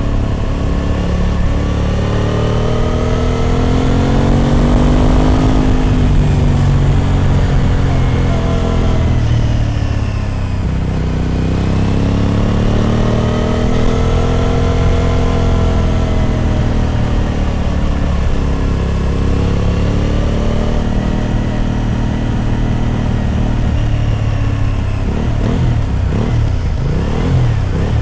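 Aprilia RS 660's parallel-twin engine running through an SC Project exhaust while riding, its pitch climbing and falling back in two long swells as the bike pulls and eases off. Near the end the pitch wavers up and down quickly.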